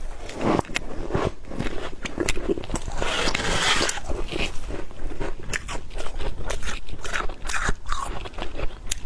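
Frost crunching and scraping: a dense run of crisp crackles and scrapes, with a longer hissing scrape about three seconds in.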